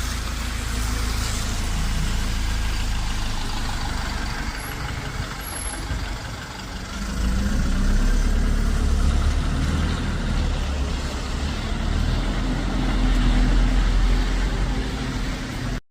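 Bus engine running, a low rumble that grows louder about seven seconds in. The sound cuts off abruptly near the end.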